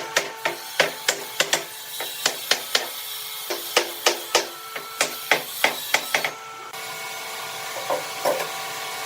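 Rapid, regular knocks on wood, about three a second, like a hammer striking timber, stopping about six seconds in. A steady running machine sound follows.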